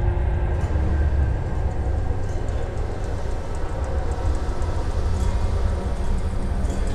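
Dark ambient track built as a boiler-room soundscape: a steady, heavy low machinery rumble with faint metallic ticks scattered over it.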